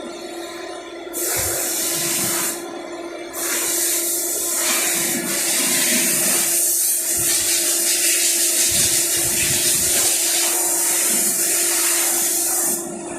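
High-pressure water spraying from a car-wash pressure washer: a short burst about a second in, then a long continuous spray from about three seconds in until near the end, over a steady hum.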